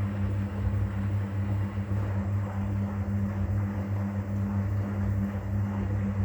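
Arielli AWM-7128N washing machine running its softener rinse: a steady low hum from the motor with an even rushing, churning noise over it, unbroken throughout.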